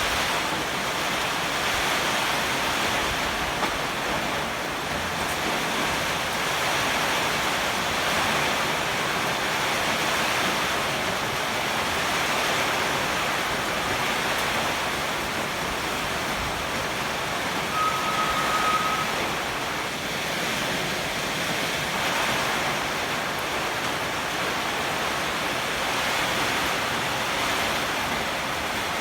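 Heavy typhoon rain and strong wind making a steady, even rush of noise. A brief steady tone sounds about two-thirds of the way through.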